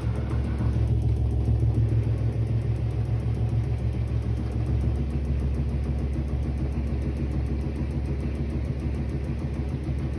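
Haier HW6O-BP12919A washing machine drum spinning with a heavy rumble and fast, continuous knocking that can be heard throughout the flat. The owner takes the knocking for a defect, though the repair technician found no fault.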